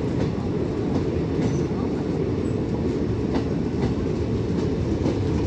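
Unchahar Express passenger train at the station platform: a steady low rumble with a few scattered sharp clicks from the coaches.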